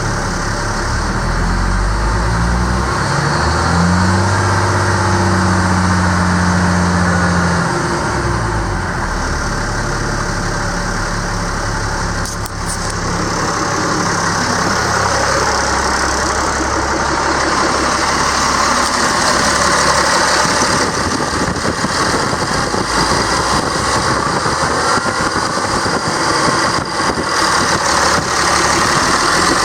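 Caterpillar C7 inline-six turbo diesel in a Ford F-750 idling. About three seconds in its speed rises and holds briefly, then drops back to a steady idle near eight seconds.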